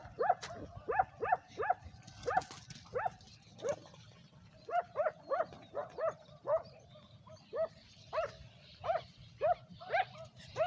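A dog barking over and over in short, sharp barks, about two a second, with a brief pause partway through.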